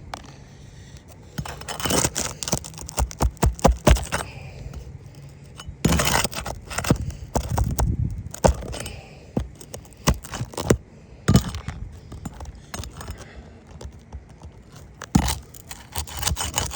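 Metal roofing tools clinking, knocking and scraping on asphalt shingles: a run of sharp clicks and scrapes.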